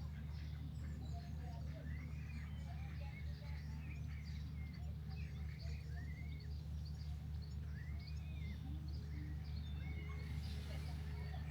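Several birds singing and calling at once, a busy mix of short chirps and rising-and-falling whistles, over a steady low rumble.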